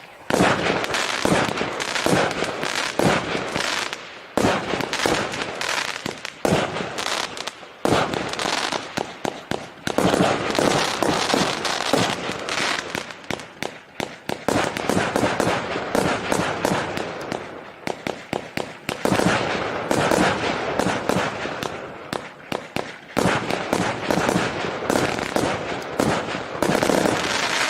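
A 20 mm, 88-shot consumer firework cake (TK-Service TKB388 "8 Marta") firing: shot after shot in rapid succession, several a second, with only brief let-ups.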